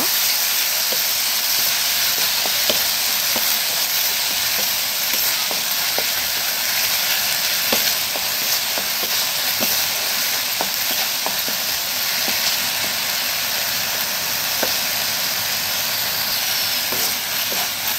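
Onion and ginger-garlic paste sizzling steadily in hot oil in a kadai while being sautéed, stirred with a wooden spatula that gives occasional light scrapes and taps against the pan.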